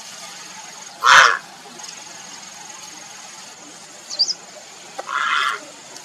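Grey heron giving two harsh, croaking calls: a short loud one about a second in and a longer one near the end. Faint high chirps from a small bird come between them.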